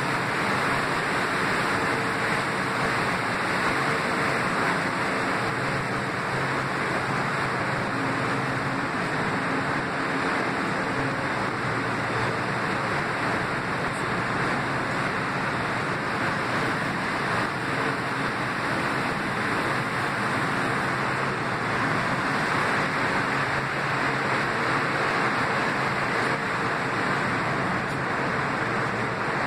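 Two stationary Metro-North M8 electric railcars standing with their doors open, their ventilation and onboard equipment giving a steady hiss with a faint low hum underneath.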